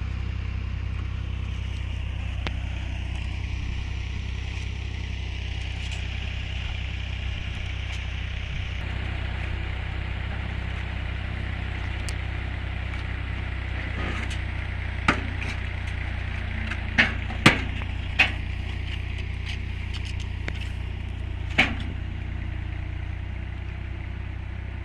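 An engine running steadily at idle, with about five sharp knocks in the second half.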